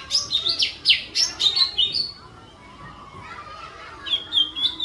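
Songbird singing fast, sharp falling whistles, the high 'tembakan' phrases prized in bird-song training recordings, for about two seconds. After a short lull come short repeated high notes near the end.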